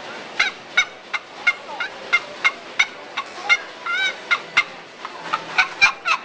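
Fowl calling: a run of short, sharp calls, about three a second, with one longer call about four seconds in.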